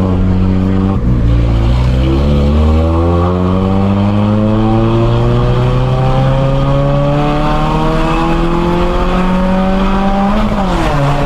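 GM Astra engine accelerating under load in one long pull: its pitch dips briefly about a second in, then rises steadily for about nine seconds. Near the end the revs fall sharply.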